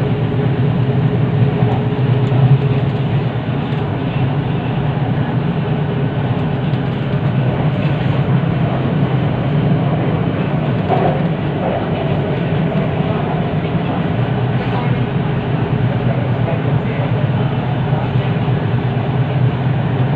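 Inside the carriage of an MRT train running between stations: steady wheel-and-track rumble and running noise, with a faint steady hum.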